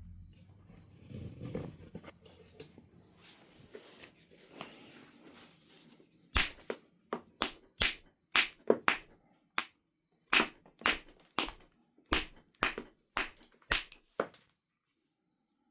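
Faint handling rustle, then a run of about seventeen sharp, clicking strikes, roughly two a second, each with a brief high ring: percussion knapping on a Knife River flint biface.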